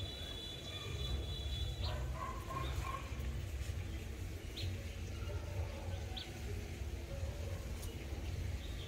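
Outdoor ambience: a steady low rumble with a few short, high bird chirps scattered through it, and some brief high whistled notes near the start.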